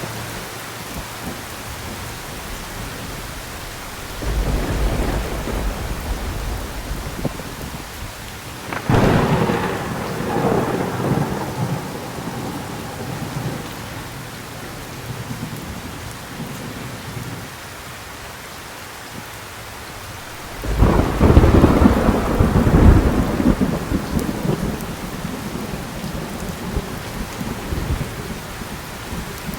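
Thunderstorm: steady heavy rain hissing, with three peals of thunder. A low rumble comes about four seconds in, a sharper crack rolls off over a few seconds near the one-third mark, and the loudest, deepest rumble comes about two-thirds of the way through.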